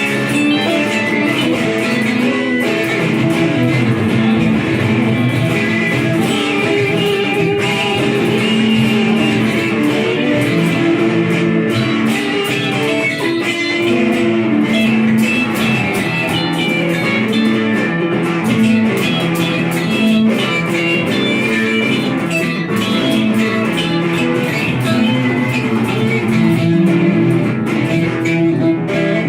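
Guitar playing an improvised blues rock jam: a continuous stream of plucked notes over a low bass line, steady in loudness with no break.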